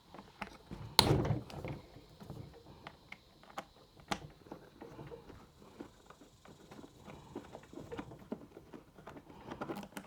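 Number 3 Allen key loosening the screws on an Uhlmann fencing reel's housing: scattered small metal clicks and taps, with a louder knock about a second in.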